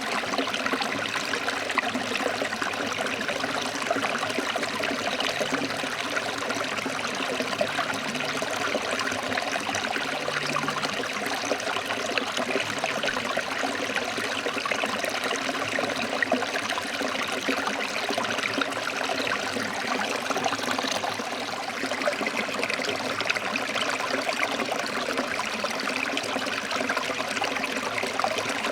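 Forest stream flowing over rocks: a steady, even rush and trickle of water with no breaks.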